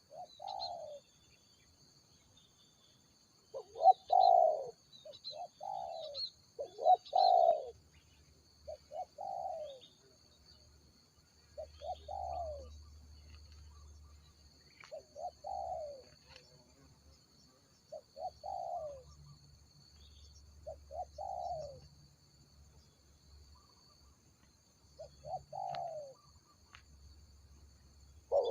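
Spotted doves cooing: short repeated coo phrases every second or two, some louder and some fainter, with pauses between. A faint steady high-pitched whine runs underneath.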